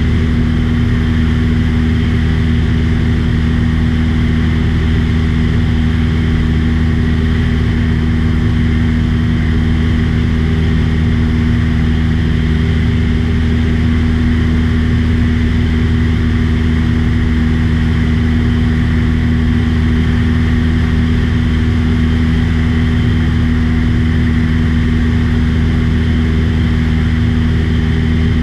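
Small plane's engine and propeller running steadily in flight, a loud, even drone with a low hum, heard from on board.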